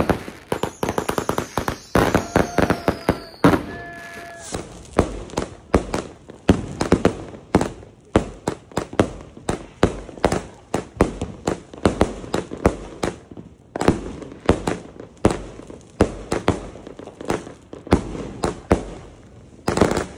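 Consumer fireworks going off in a fast, irregular string of sharp bangs, several a second. Falling whistles sound over the bangs in the first three seconds or so.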